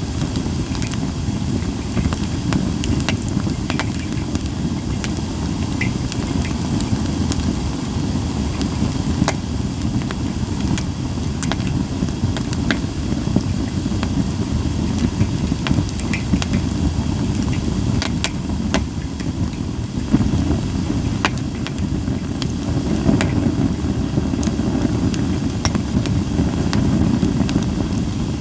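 Japanese white pine firewood burning, crackling with frequent sharp, irregular pops over a steady low rumble.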